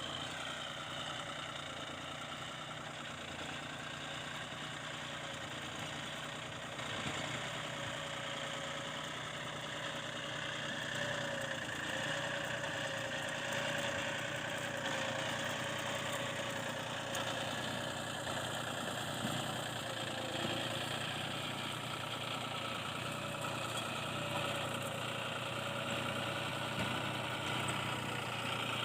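John Deere 5310 tractor's three-cylinder diesel engine running steadily.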